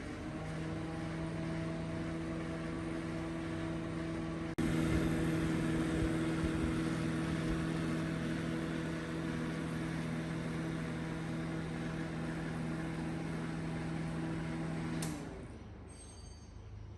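Microwave oven running with a steady electrical hum, stopping abruptly near the end.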